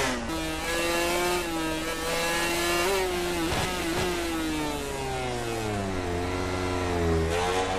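MotoGP racing motorcycles' four-cylinder four-stroke engines at high revs, the pitch falling and rising repeatedly as the riders shift gears and brake into corners and accelerate out.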